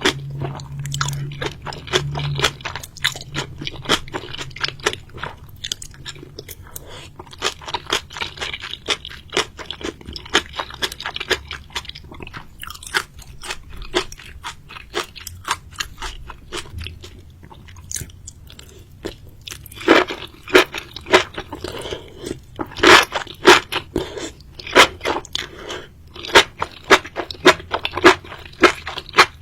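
Close-up chewing and crunching of seafood: a quick run of wet, crisp crunches, louder and sharper through the last third.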